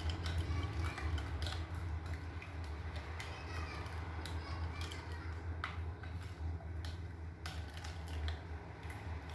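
A spoon stirring melted chocolate with sugar and instant coffee, making irregular clicks and taps against the container, over a steady low hum.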